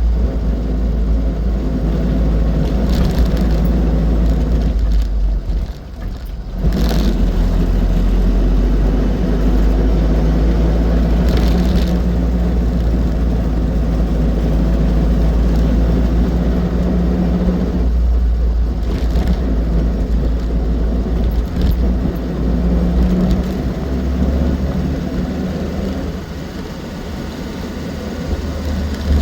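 Austin 7's small four-cylinder side-valve engine and running gear on the move, a steady low drone with road rumble; the sound dips briefly about six seconds in, then picks up again.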